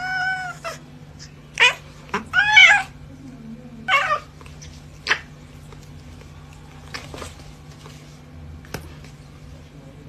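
A domestic cat meowing four times in the first four seconds, the calls arching in pitch and the third the longest. After that there are only a few faint clicks over a steady low hum.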